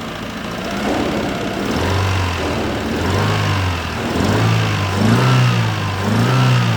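Used contract car engine revved in about five short blips from about two seconds in, the pitch rising and falling each time. It is running rough, on only three cylinders, with a misfire the owner points out.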